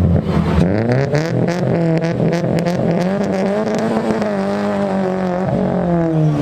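A car engine revved hard: the revs climb about a second in with a rapid crackle, hold high for a few seconds, then drop back near the end.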